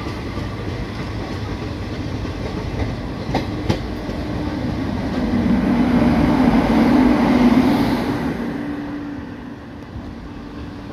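Train passing close alongside on the next track, heard from a moving train: a steady rail rumble with two sharp wheel clicks about three and a half seconds in. The noise swells to its loudest about six to eight seconds in as a coach goes by, then drops off once the track beside is clear.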